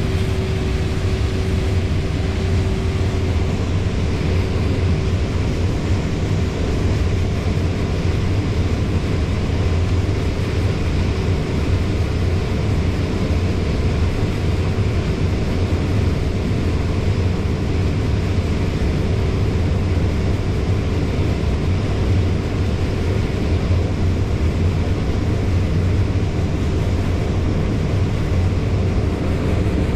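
Combine harvester running steadily while cutting corn, heard from inside the cab: an even low drone with a constant hum over it that weakens about two thirds of the way through.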